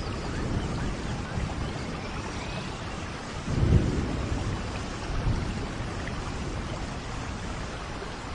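Steady rainforest rain with low rumbles of thunder; the loudest rumble swells about three and a half seconds in, and a weaker one follows a little over a second later.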